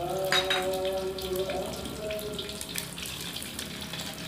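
Eggs sizzling in hot oil in a wok, a steady frying hiss, while a metal spatula stirs them with scattered light scrapes and clicks against the pan.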